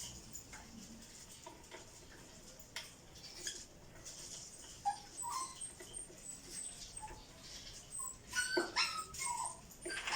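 African lovebirds chirping and squeaking: many short, shrill calls, with a louder run of sharp calls near the end.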